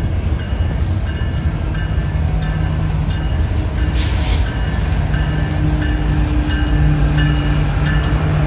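Train passing close by: a steady rumble of rolling cars on the rails, with a low steady drone that comes up about halfway through and two brief hissy bursts.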